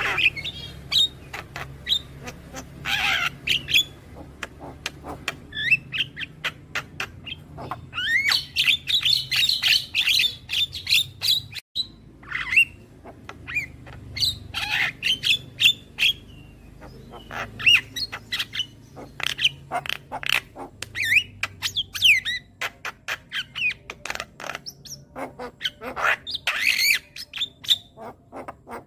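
Javan myna (jalak kebo) calling continuously: a rapid mix of sharp clicks, harsh squawks and short whistled notes, with a dense run of chatter about a third of the way in. A brief dropout breaks it near the middle.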